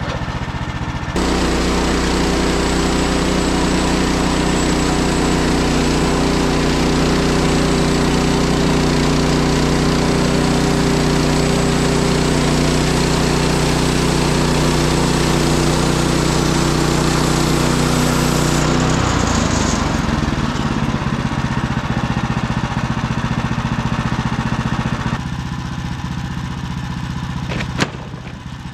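Woodland Mills HM130MAX bandsaw mill cutting a log: its gas engine rises to a steady full-throttle run about a second in, with the hiss of the band blade in the wood over it. About two-thirds of the way through, the cutting hiss stops and the engine drops to a lower, rougher running sound.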